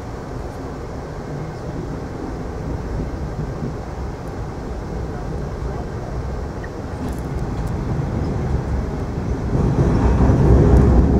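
Passenger train running, a steady low rumble that grows louder over the last few seconds.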